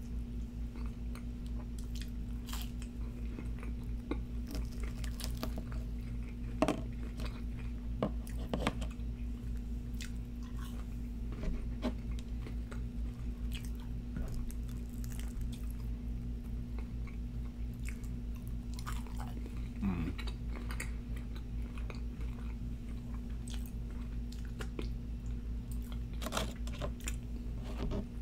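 Close-miked chewing and biting of McDonald's chicken McNuggets, with scattered crunches and mouth clicks over a steady low hum.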